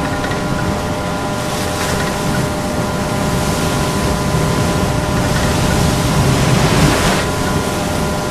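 Sea surf washing on a rocky shore over a steady hum of several held tones. The surf swells to its loudest about seven seconds in, then eases.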